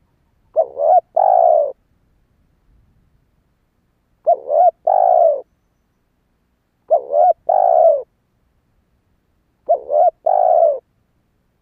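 Spotted dove cooing: four phrases, each a quick double note followed by a longer note, repeated about every three seconds.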